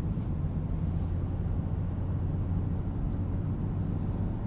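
A car driving: steady low engine and road rumble, unchanging throughout.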